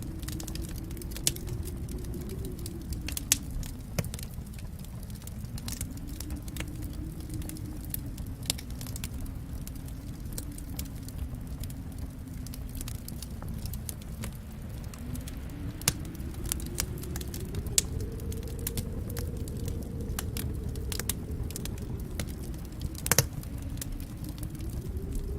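Wood fire crackling in a fireplace: a steady low rumble of burning with a constant scatter of small snaps and a few louder pops, the sharpest near the end.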